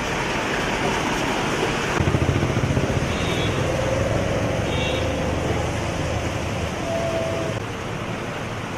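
Street traffic noise with a motor vehicle rumbling past from about two seconds in, and a few short horn toots.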